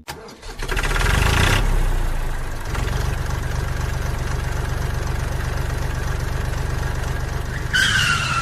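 An engine starting up, then idling with a steady rapid beat. Near the end a short, slightly falling whistle-like tone sounds over it.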